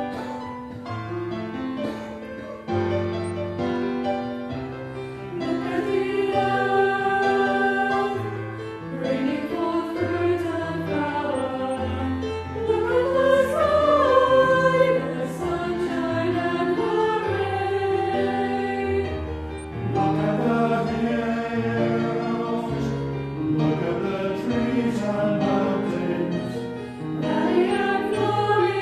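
A choir singing a hymn over held, steady accompanying chords.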